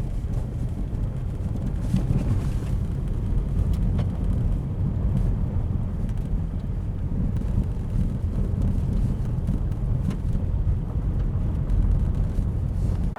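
2014 Subaru XV Crosstrek driving at night: a steady low rumble of road and engine noise. It cuts off abruptly at the end.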